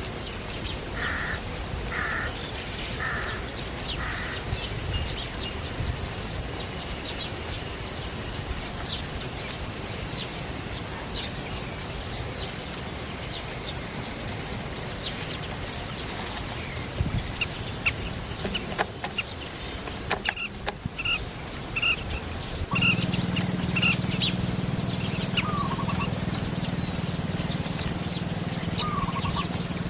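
Outdoor ambience of several small birds chirping and calling, with four short calls about a second apart near the start. About two-thirds of the way through, a steady low hum starts and keeps going.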